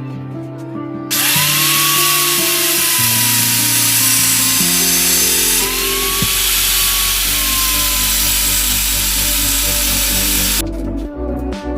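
Electric power tool running hard on the metal of an old TV wall bracket, its motor whine gliding up as it gets going. It starts about a second in, eases for a moment midway and picks up again, and stops near the end, with background music underneath.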